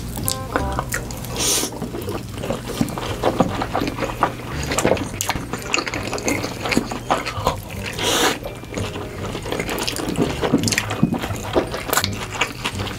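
Close-miked eating: wet chewing and mouth smacks with many small clicks, and two louder, short noisy bites, about one and a half seconds in and about eight seconds in.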